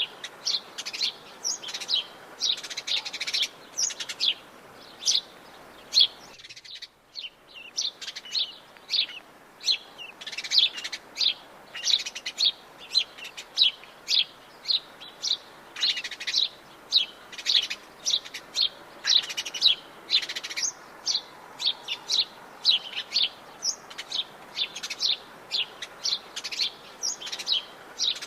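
Wild forest birds chirping and twittering in a dense run of short, high calls, several a second, over a steady background hiss. About six seconds in, the background hiss cuts out abruptly for a moment.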